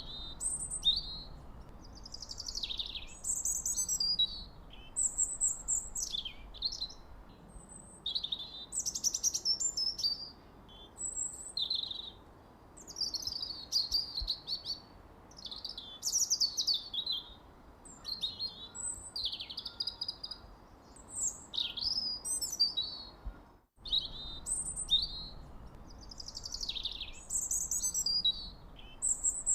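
Small songbirds chirping and singing without pause: many quick, high, mostly falling chirps overlapping one another. There is a brief break in the sound about three-quarters of the way through.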